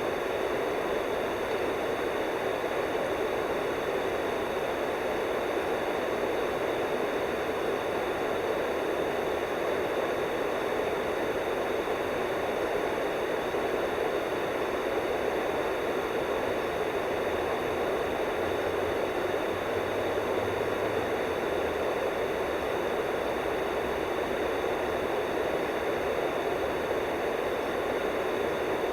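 Mountain river water rushing in a steady, unbroken hiss.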